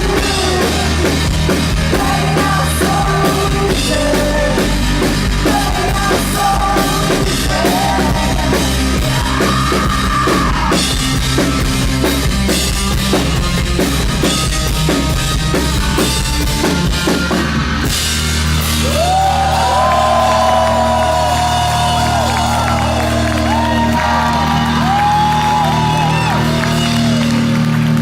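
Live rock band playing loudly: drum kit, electric guitars, bass and singing. About two-thirds of the way through, the drums drop out and long held, bending notes ring out over sustained low bass chords.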